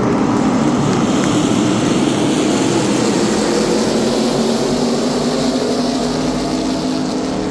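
A field of NASCAR Craftsman Truck Series race trucks going by under power, their V8 engines blending into a loud, steady drone with a rushing noise that swells in the middle.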